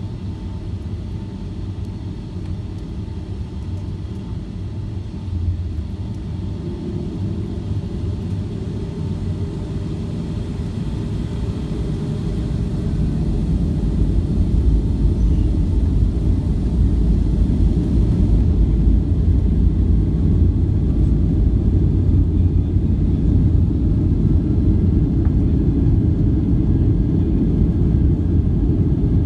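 Boeing 757-200 airliner: a steady low rumble that grows louder over the first dozen seconds or so, then holds loud and steady.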